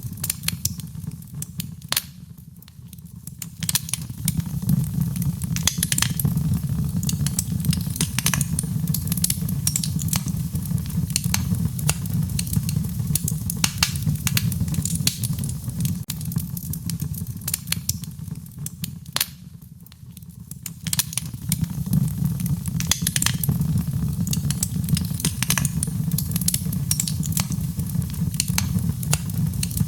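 Wood fire crackling and popping over a steady low rumble of burning. The sound dips briefly twice, about two seconds in and again near twenty seconds, then comes back up.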